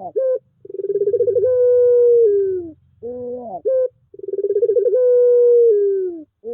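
Puter pelung dove cooing: two long coos, each starting with a quick stuttering run, settling into a held note and dropping in pitch at the end, with short clipped notes in between.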